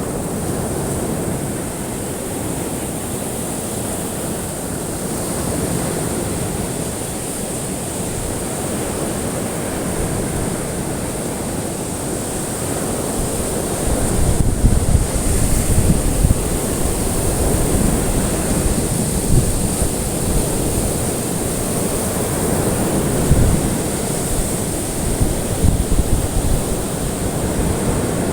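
Recorded ocean surf washing steadily on a shore. About halfway through it grows louder, with irregular low rumbling surges like wind buffeting the microphone.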